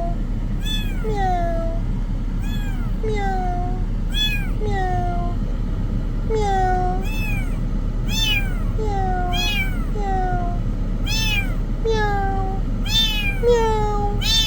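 Kitten meowing over and over, about one and a half short calls a second, each rising and falling in pitch, some calls higher and some lower. A steady low hum runs underneath.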